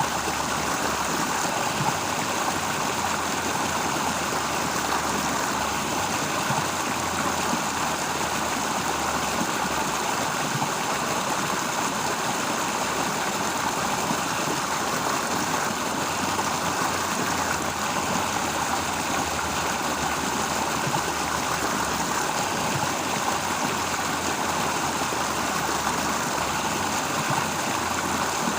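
Steady rush of water flowing in a stream, an even, unbroken sound.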